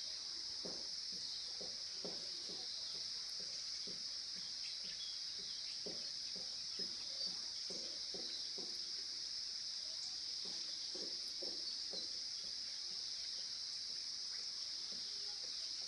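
A chorus of insects, crickets or cicadas, trilling as one steady high-pitched hum. Short, irregular low calls or knocks sound faintly underneath.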